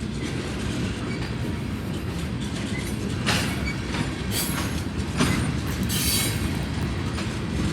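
Crude oil tank cars of a freight train rolling past with a steady rumble of steel wheels on rail. Four brief high hissing screeches from the wheels come about halfway through.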